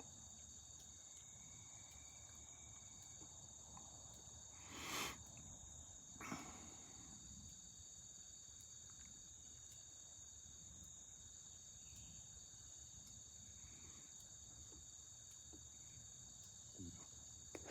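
Faint, steady, high-pitched insect chorus in the background. A short noise stands out about five seconds in, and a smaller one comes just over a second later.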